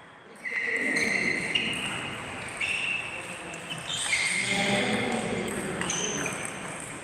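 Table tennis rally: the celluloid ball clicking off the rackets and table several times, with short high squeaks from players' shoes on the hall floor.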